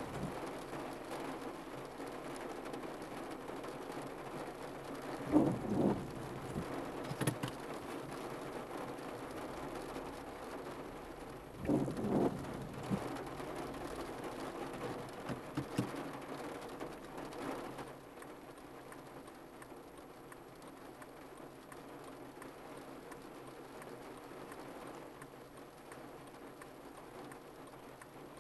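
Steady rain pattering on a car's windshield and roof, heard from inside the car, with a few short dull thumps in the first two-thirds. The rain noise grows somewhat quieter about two-thirds of the way through.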